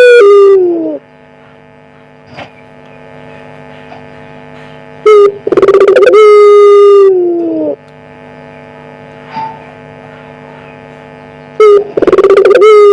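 Puter pelung dove cooing: a short note, then a long, loud, drawn-out coo that drops in pitch as it ends, repeated about every six seconds, with a steady electrical hum underneath.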